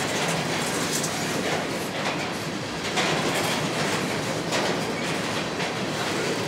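BNSF three-bay covered hopper cars rolling past: a steady rumble of steel wheels on rail, with a clack every second or so as the wheels cross rail joints.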